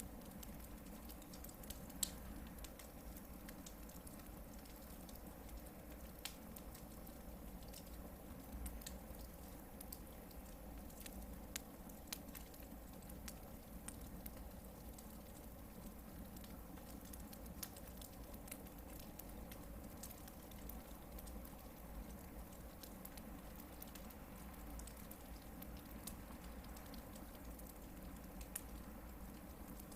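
Hardwood firewood burning in a campfire, with scattered sharp crackles and pops over a faint steady hiss; one louder pop about two seconds in.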